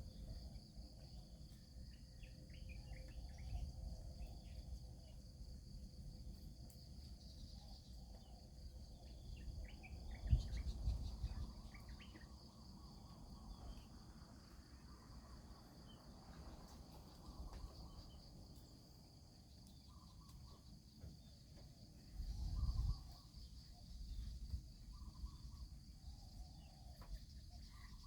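Insects chirring steadily in a high, even drone, with scattered faint ticks and two brief low rumbles, about ten seconds in and again near the twenty-two-second mark.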